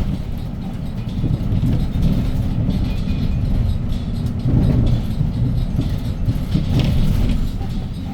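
2017 Hyundai Green City city bus with a C6GB compressed natural gas engine running while under way, heard from inside the cabin: a steady low rumble with light rattles.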